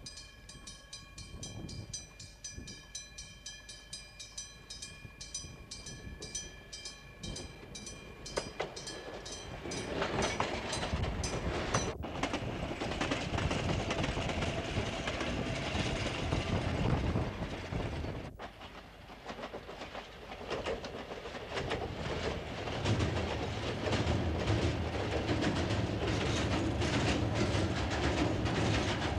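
A Japanese level-crossing bell rings with rapid, regular strikes. About ten seconds in, a small electric train of the 762 mm narrow-gauge Tochio Line runs past, its wheels clattering and rumbling over the rail joints.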